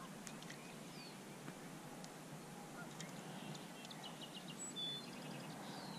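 Faint small-bird chirps and whistles over a quiet, steady outdoor background noise, with a quick run of short high notes about three and a half seconds in.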